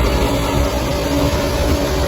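Crawler bulldozer's diesel engine running steadily, a low rumble with a steady whine over it.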